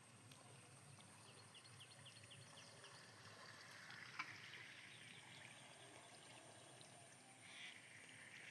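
Near silence: faint outdoor water ambience, with a quick run of faint high chirps about two seconds in and a single sharp click about four seconds in.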